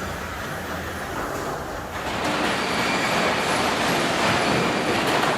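Sawmill lumber-line machinery running: a steady mechanical noise that grows louder about two seconds in and drops back near the end.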